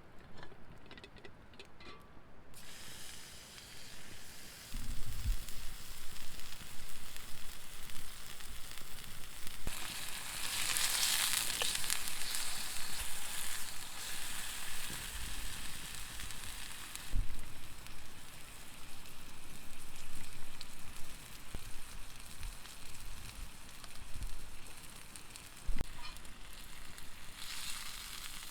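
Sizzling in a hot pan over a campfire. It starts suddenly about two and a half seconds in, swells louder for a few seconds near the middle, and carries a few sharp pops and low knocks.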